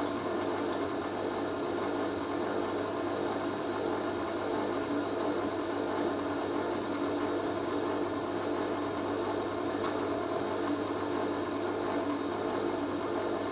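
Hoover A3060 washing machine's drain pump running with a steady hum, like a refrigerator compressor, as it pumps out the water ahead of the spin.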